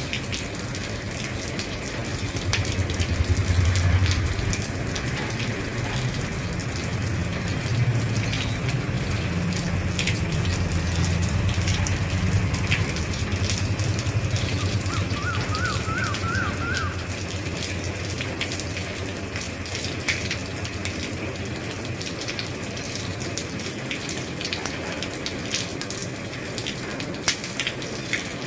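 Rain falling on an old roof: a steady hiss with many individual drops ticking. A low rumble swells and fades over the first half, and a brief run of quick chirps sounds just past the middle.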